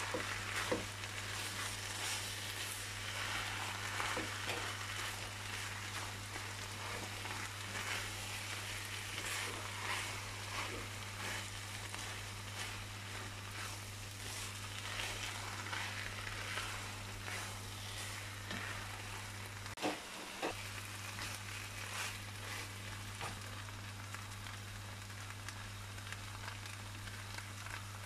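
Diced potato and corn filling sizzling in a nonstick frying pan, stirred and scraped with a silicone spatula, over a steady low hum.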